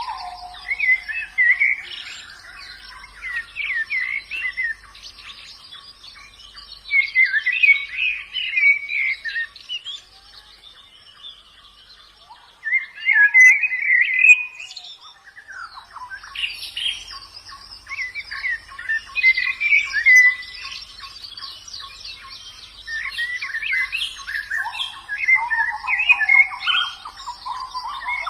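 White-eyes (pleci) singing: bursts of rapid, high twittering phrases, each a few seconds long, separated by short pauses.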